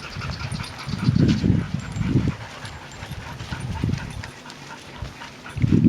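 A dog panting, in uneven bursts of breath.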